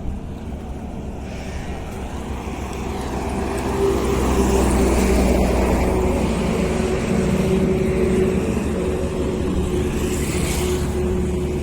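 Truck engine running steadily, growing louder about four seconds in.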